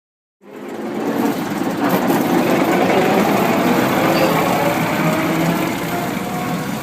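A heritage railway train's engine running steadily, starting abruptly at a cut, with a faint whine rising slowly in pitch through the middle.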